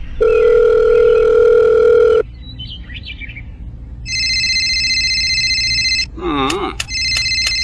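Electronic phone-like tones. A steady low tone holds for about two seconds and stops. After a short gap a higher steady tone like a phone ringing holds for about two seconds. A brief gliding voice-like squeal follows, then the high tone returns with a few clicks near the end.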